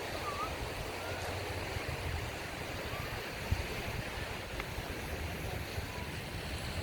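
Surf washing onto the beach as a steady rush of water, with wind rumbling on the microphone.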